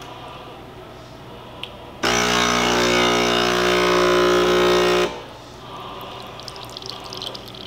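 De'Longhi Perfecta espresso machine's built-in coffee grinder running for about three seconds, starting and stopping abruptly, as it grinds beans for a double shot. Quieter machine running noise comes before and after, with faint fine rattling near the end.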